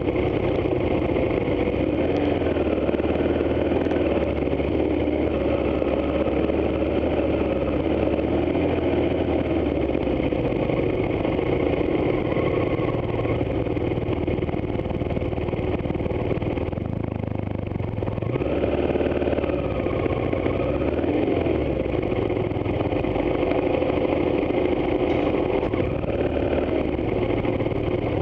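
Adventure motorcycle engine running steadily at low speed on a rough dirt track, its pitch wavering with small throttle changes, with a brief easing off and pick-up about two-thirds of the way through.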